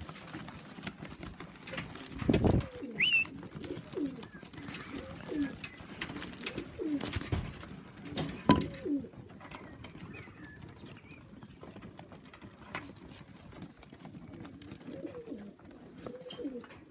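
Domestic pigeons cooing repeatedly, with a few sharp knocks, the loudest about eight seconds in.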